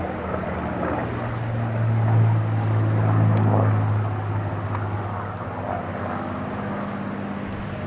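Propeller aircraft engines droning as the plane flies past, loudest two to four seconds in, then easing off.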